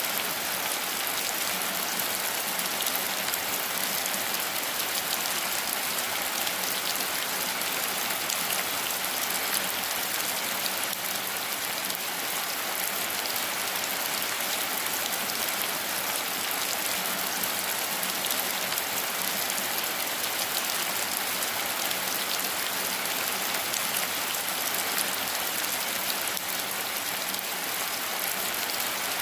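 Steady rain falling, a dense even hiss of many fine drop patters.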